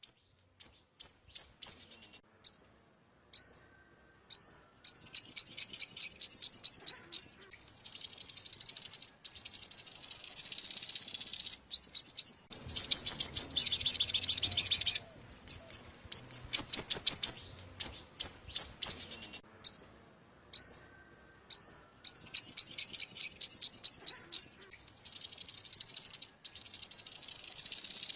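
Sunbird song, the bird Vietnamese keepers call the five-colour sunbird: high, thin down-slurred notes, first given singly, then run together into long fast trills several seconds at a time, with short gaps of single notes between them.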